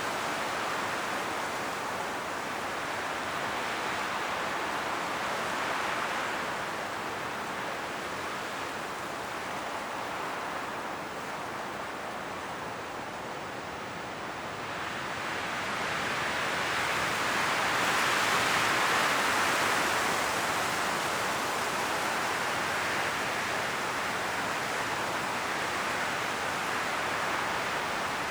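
Strong wind gusting through autumn forest trees, rushing through the leaves. It swells and eases in slow gusts, dipping about halfway through and rising to its strongest a few seconds later.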